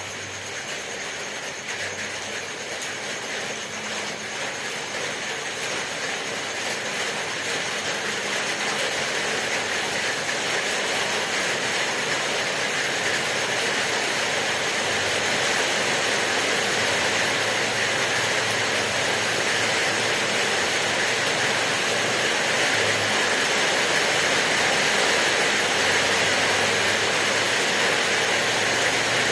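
Steady rain: an even hiss of falling drops that slowly grows louder.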